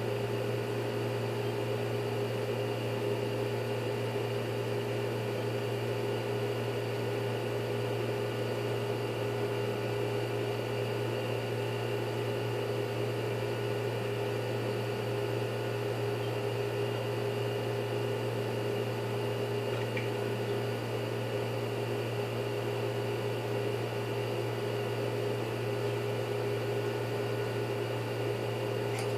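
Steady electrical machine hum with a few constant tones over an even hiss, unchanging throughout.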